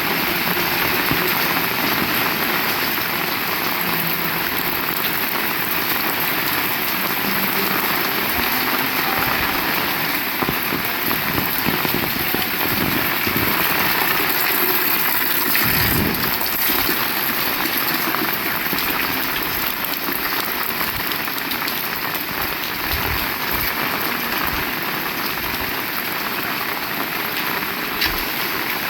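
Heavy rain falling steadily in a dense, even hiss, with a few dull low thumps and one short sharp knock near the end.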